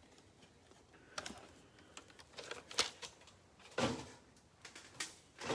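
Small cardboard boxes being handled: a few scattered light taps and rustles, the loudest nearly four seconds in and at the very end.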